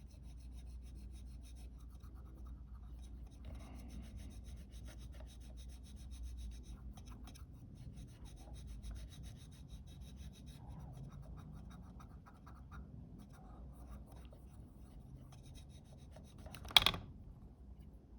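Faint, fine rubbing and scratching as sticky, leaking glue is cleaned off the Fuji GA645's shutter flex cable with alcohol. One sharp tap comes near the end.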